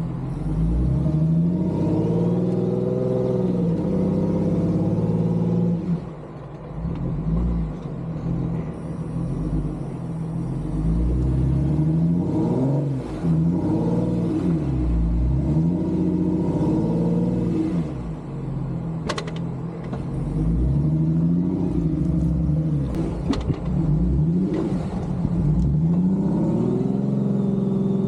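Jeep Wrangler JK engine revved up and down over and over as it is driven through mud, working to get through and bogging down, with a couple of sharp clicks partway through.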